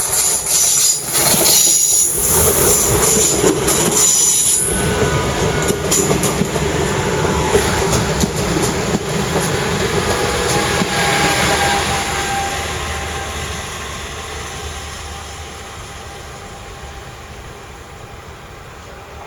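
Train running on the station tracks, wheels squealing high in the first few seconds and clattering over the rails, then the sound fades steadily as the train moves away.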